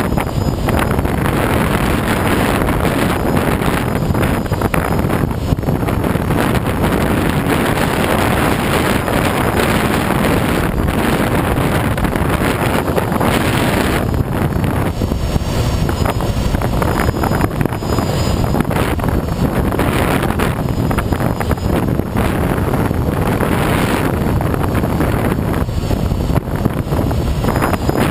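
Steady rush of air and wind buffeting the microphone on a Schweizer SGS 2-33A glider in flight under aerotow.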